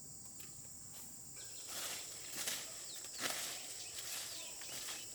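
Steady high-pitched insect drone, with a few short rustling, scuffing noises like footsteps about two and three seconds in.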